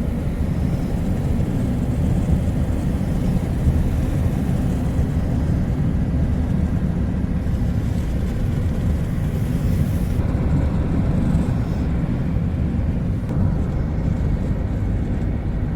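A motor vehicle driving along a road: a steady low rumble of engine and road noise.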